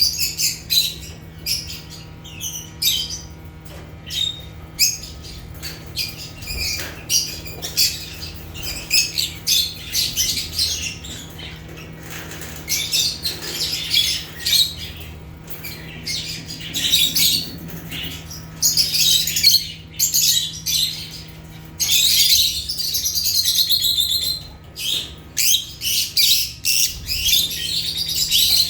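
Lovebirds chirping and squawking in rapid, high-pitched bouts of overlapping calls with short lulls between them, over a faint steady low hum.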